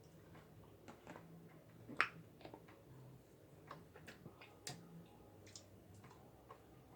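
Scattered faint clicks and small cracks of someone eating king crab legs, handling and biting at the shell, with one sharper crack about two seconds in.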